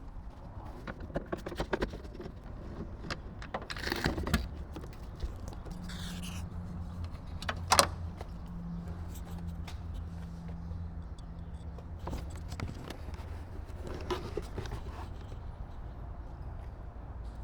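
Scattered clicks, scrapes and rattles of parts being handled while a Dacia Duster door mirror is being replaced, with one sharp click about eight seconds in. A low steady hum runs underneath, and a faint higher hum holds for several seconds in the middle.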